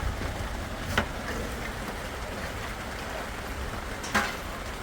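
Steady rain noise with a low wind rumble, broken by two sharp knocks, one about a second in and one near the end.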